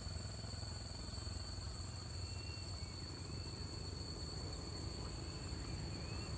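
Steady, high-pitched insect chorus, one constant shrill tone with a higher hiss above it, over a low background rumble, with a few faint chirps about two to three seconds in.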